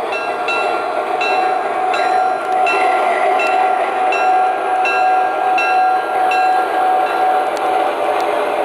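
Proto-Sound 2 sound system of an MTH RailKing model RS-3 diesel ringing its locomotive bell, about ten strokes some 0.7 s apart that stop near the end, over a steady diesel engine drone and running noise.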